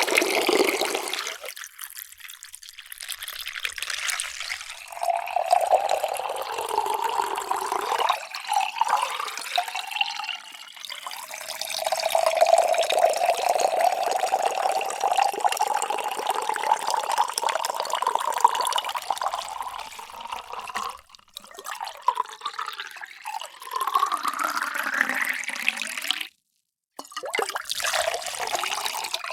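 Water being poured into a drinking vessel in a series of pours, splashing and gurgling with a resonant pitch; near the end one pour rises steadily in pitch as the vessel fills. A brief cut to silence comes just before the last pour.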